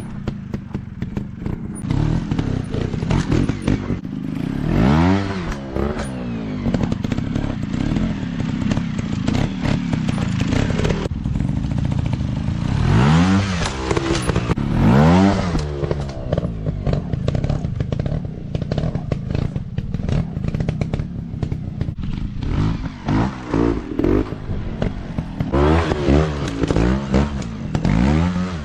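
Dirt bike engines running and revving, the pitch rising and falling in swells about five seconds in, twice around thirteen to fifteen seconds, and several times near the end, with clattering knocks throughout.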